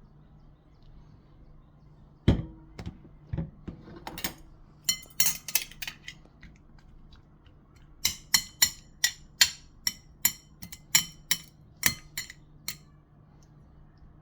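A series of sharp clinks and taps of utensils against dishes. They come scattered at first, then as a run of about a dozen evenly spaced strikes.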